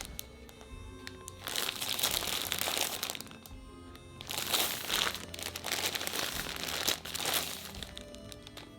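Packaging crinkling as it is handled, in two stretches with the second one longer, over faint background music.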